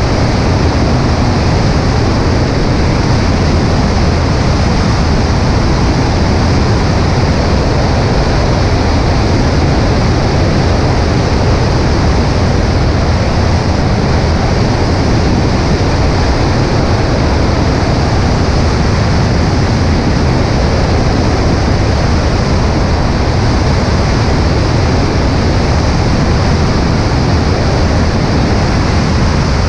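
Cessna 140A in flight, heard from a camera on its right wing: a loud, steady, unbroken rush of wind and engine noise.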